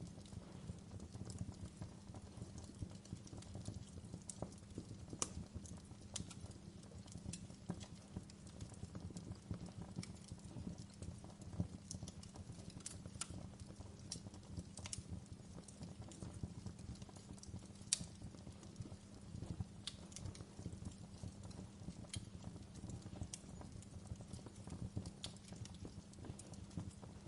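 Wood fire burning in a fireplace: a steady low rumble of the flames with irregular sharp crackles and pops, one louder pop about two-thirds of the way through.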